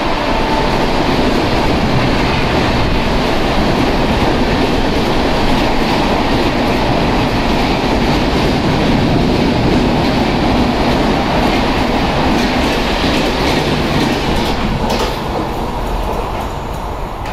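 A passenger train's coaches rushing past at speed, with a steady loud rumble and wheels clattering over the rail joints. The sound falls away near the end as the last coach goes by.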